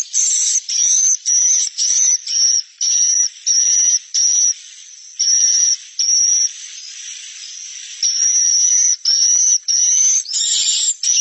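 Swiftlet chirps played as a lure, high-pitched and repeating quickly, about two to three a second, with a brief fainter, hissier stretch in the middle. This is a swiftlet-house roosting call ('suara inap'), played to draw swiftlets in to stay and nest.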